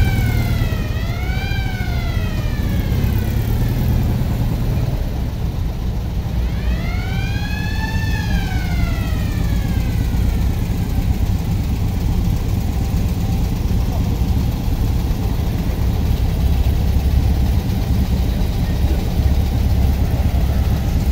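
Air-cooled VW Beetle engines running and pulling away as the cars drive past in a line, a steady low rumble throughout. A siren wails up and down twice right at the start, then once more, longer, from about six to ten seconds in.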